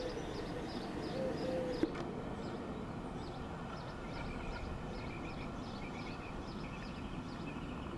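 Small songbirds chirping over and over, with a steady low background rumble.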